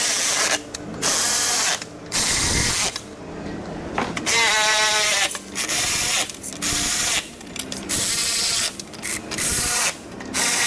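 Cordless power tool running 10 mm bolts into a bumper's lower molding in a string of short bursts, one of them with a rising whine about halfway through.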